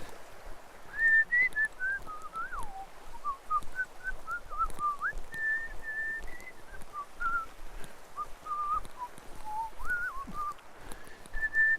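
A person whistling a wandering tune of clear notes that slide up and down, starting about a second in and pausing briefly near the end, over the faint rush of a forest stream.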